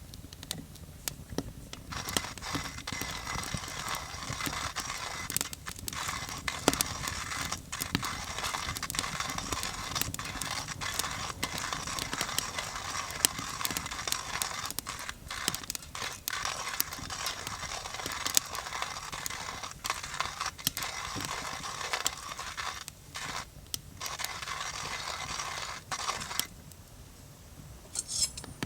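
Coffee beans being ground in a coffee grinder: a continuous gritty grinding with small cracks and clicks, pausing briefly a few times and stopping near the end.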